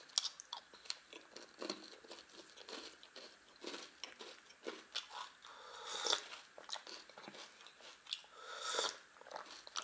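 A person chewing a crunchy multigrain cereal candy close to the microphone, with many small crisp crunches throughout, and a sip from a mug of tea near the end.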